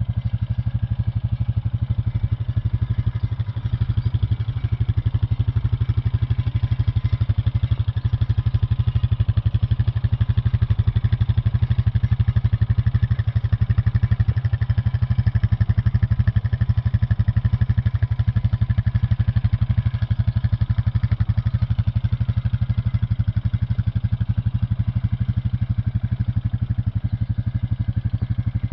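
2014 Honda TRX420 quad bike's single-cylinder four-stroke engine idling steadily, with an even rapid pulse and no revving.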